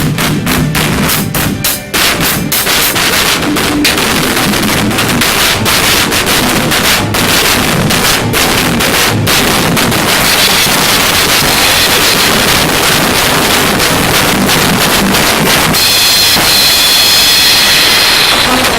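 Acoustic drum kit played solo in an improvised amateur beat: a run of separate drum hits, then a dense wash of cymbals in the second half, loudest near the end, which stops abruptly.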